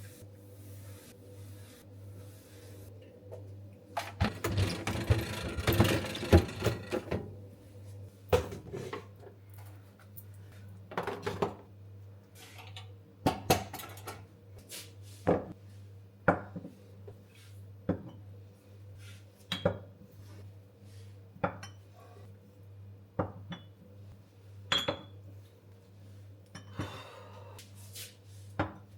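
Dishes and cutlery clinking and clattering as they are handled: a dense run of clatter about four seconds in, then single clinks and knocks every second or two, over a steady low hum.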